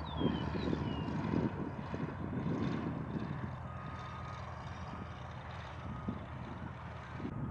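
Aircraft engine running steadily at an airfield, a low hum with a faint higher whine joining about halfway through, under gusty wind buffeting the microphone.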